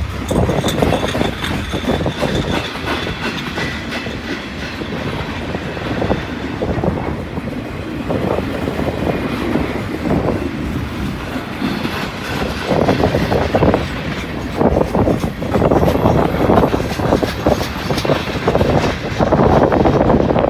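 Long freight train's cars rolling past, wheels clattering over the rail joints in a dense run of clicks, louder from about two-thirds of the way in. Wind buffets the microphone.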